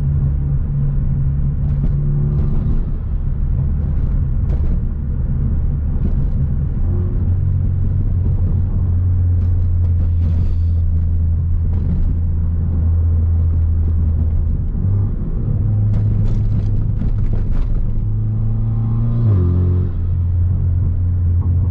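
Hyundai Veloster Turbo's 1.6-litre turbocharged four-cylinder engine and exhaust droning inside the cabin while driving. The note shifts in pitch a few times as the revs change.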